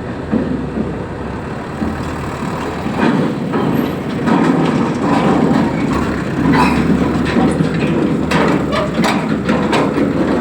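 Reachstacker's diesel engine running, with metal clanks and rattles of container-handling gear. It grows louder about three seconds in, and the clanking goes on from there.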